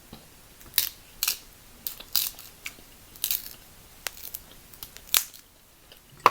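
Crab leg shell cracking and snapping as it is pried apart by hand to get the meat out of a broken leg, in a series of short, sharp cracks at irregular intervals.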